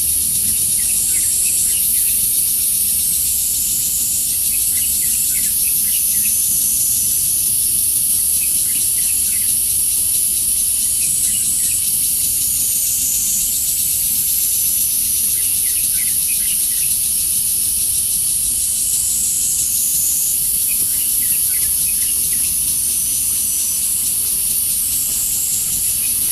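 A loud, continuous high-pitched insect chorus that swells and eases in a slow cycle every several seconds, with faint short chirps in little clusters every few seconds.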